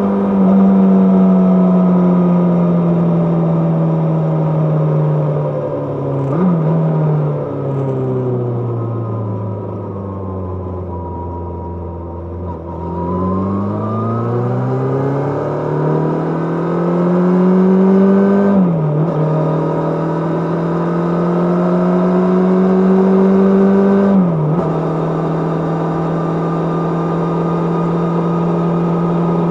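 Kawasaki GPZ550's inline-four engine under way: it slows off the throttle for several seconds, then pulls up through the gears with two upshifts, each a sudden drop in pitch. It then holds a steady cruising note near the end.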